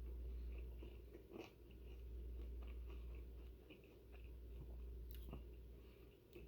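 Faint chewing of a bite of grilled cheese sandwich, with small crunches and clicks, over a steady low hum.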